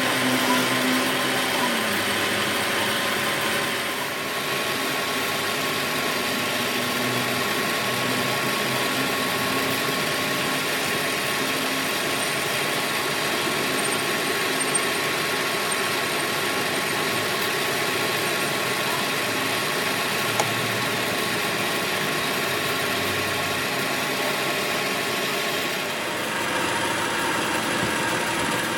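Workshop machinery running steadily, an even mechanical hum with a constant whine held throughout.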